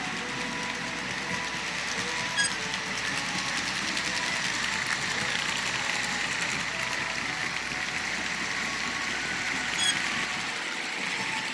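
HO scale Life-Like GP30 model diesel locomotives running on the track: a steady whirr of the small motors and gears with wheel noise on the rails. Two short sharp clicks sound, one about two seconds in and one near the end.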